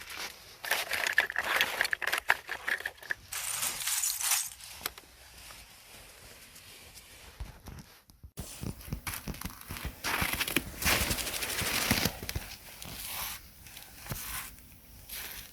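Close crackling and crinkling in irregular bursts of dense clicks, with a brief silence and a sudden change about eight seconds in.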